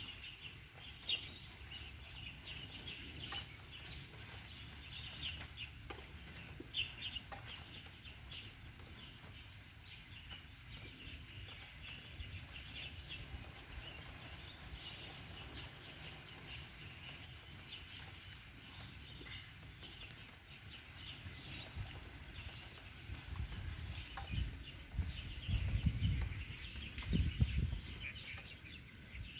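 Birds calling in short, repeated bursts, with a low rumble near the end.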